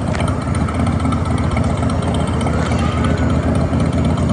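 Steady low rumble of a motorbike engine idling on the Hagrid's ride vehicle.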